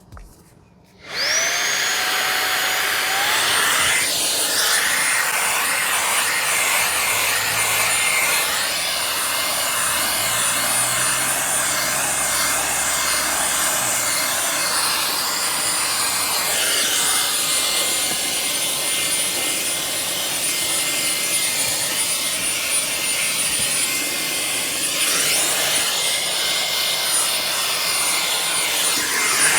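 Fanttik Slim V8 Mate cordless handheld vacuum switching on about a second in, its motor whine spinning up and climbing a step higher about three seconds later. It then runs steadily with a rushing hiss as the small brush nozzle works over a car floor mat, and cuts off near the end.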